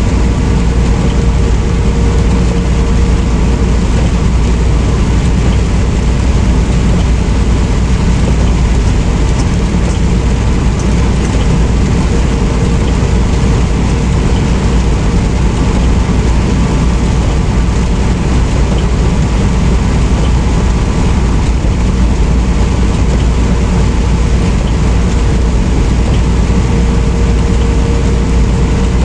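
Steady engine and road rumble heard inside a semi truck's cab while driving, with a constant low drone and a faint steady hum above it.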